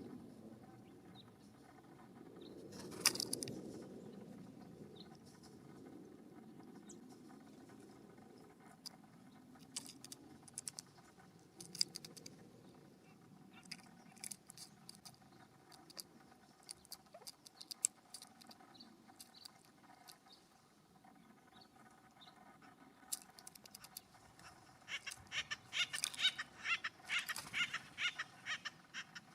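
Animals foraging at a ground seed feeder: irregular sharp taps and scratches of pecking and scrabbling among the seed, with a quick run of taps in the last few seconds.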